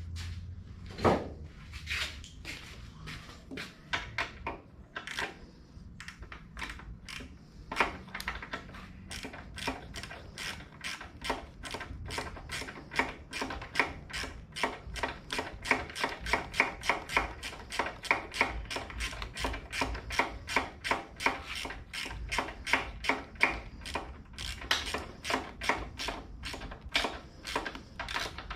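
Socket ratchet clicking as a bolt is worked, in a long run of quick, even strokes at about four a second, with scattered clicks and a few louder knocks in the first several seconds.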